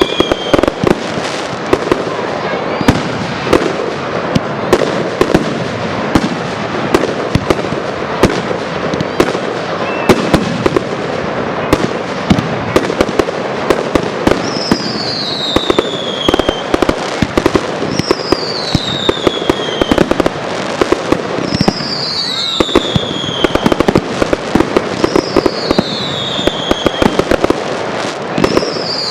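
Fireworks display in a dense barrage: rapid, overlapping bangs and crackling shells with hardly a break. From about halfway a high whistle falling in pitch comes back about every three and a half seconds, five times.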